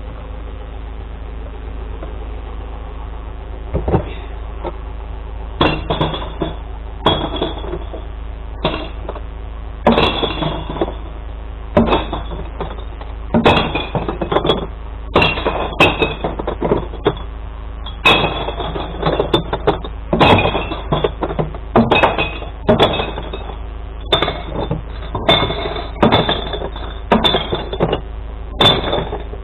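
Glass bottles crashing and smashing into a glass recycling truck, a rapid run of sharp ringing crashes every second or two, starting about four seconds in and thickening after. The truck's engine idles steadily underneath.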